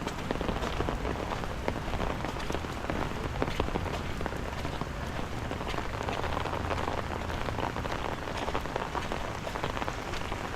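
Steady rain falling, a dense hiss of many separate drop hits, with a low rumble underneath that swells slightly about six seconds in.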